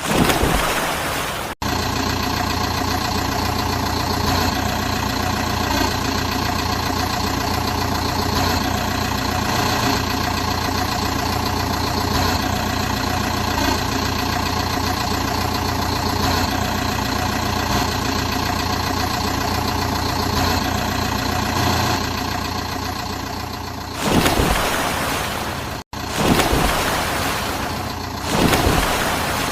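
Motor-vehicle engine running at a steady idle, with abrupt cuts from one stretch of sound to the next. Near the end it gives way to louder, noisier swells that rise in level.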